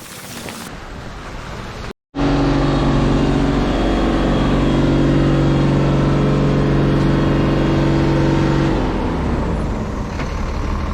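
Wind noise on the microphone, then after a brief cut a vehicle engine running at a steady pitch. About nine seconds in the pitch falls away and it settles into a lower drone.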